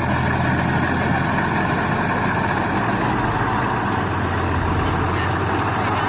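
Six-cylinder Hyundai Daewoo truck engine of a homemade log truck, running steadily with a deep, even drone while the truck is stuck in mud.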